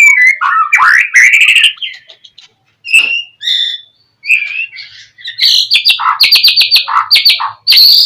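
Songbird singing a loud, varied song of whistled phrases and rapid trills. After a short pause around the middle, it breaks into fast, repeated chattering notes.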